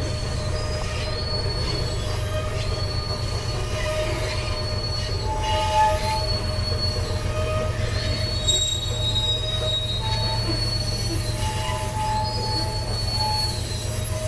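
Freight train rolling past with its wheels squealing against the rails: a high-pitched screech recurring about every second, over the steady low rumble of the cars.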